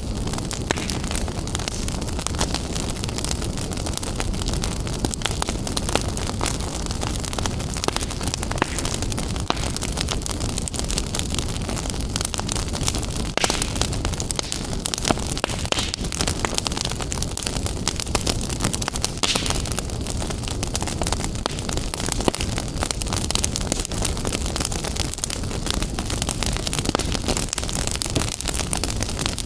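Wood fire burning in a fireplace, a steady low rumble of flames with many small crackles and pops throughout.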